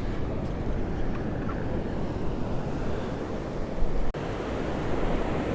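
Rough ocean surf breaking and washing steadily, with wind buffeting the microphone.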